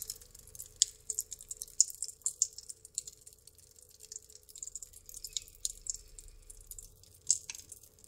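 Pop Rocks candy crackling in water inside a plastic bag: a scattering of tiny, irregular high-pitched pops, with a few sharper snaps about a second and two seconds in and again near the end.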